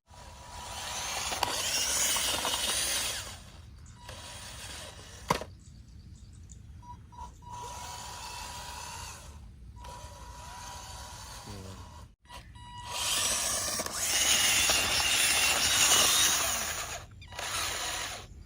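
A small electric motor or power tool running in loud bursts across several short edited clips, with quieter running between them.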